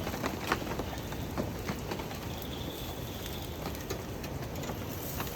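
Steady rain falling, with scattered drops ticking sharply on nearby surfaces.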